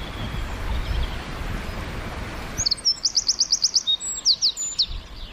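A songbird singing a rapid trill of high, quickly falling notes, about eight a second, then a few slower slurred notes; it starts about halfway through. Before the song there is a steady rushing noise with a low rumble, which stops abruptly just before the bird begins.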